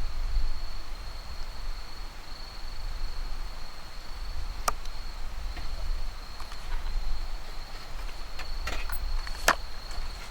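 A cricket's steady high-pitched trill, held without a break, over a low rumble, with a few sharp clicks, the loudest about halfway through and again near the end.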